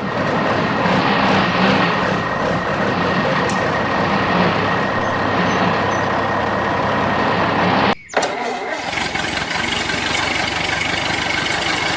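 A motor or engine running steadily and loudly. It cuts out abruptly about eight seconds in, then resumes at once.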